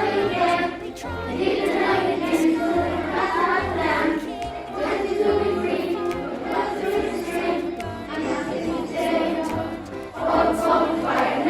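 A choir of children singing a song over instrumental backing with a stepping bass line.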